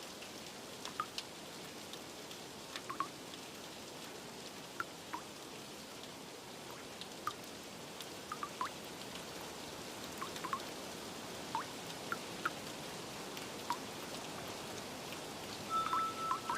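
Steady rain hiss with irregular single water drops plinking, a few every second or two. Near the end, soft chime-like music tones come in.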